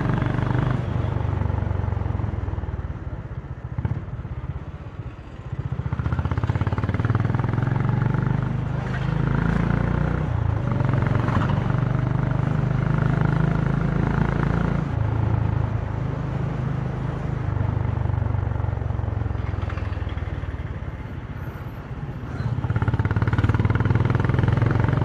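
Honda CB350's single-cylinder engine and exhaust under way, its note stepping up and down with throttle and gear changes. It falls away with the throttle closed twice, about four seconds in and again around twenty seconds, then pulls strongly again near the end.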